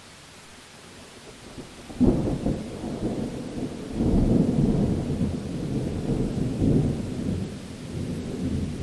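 Thunderstorm: a steady rain hiss, then about two seconds in a sudden thunderclap that rolls into a long low rumble, swelling again a couple of seconds later.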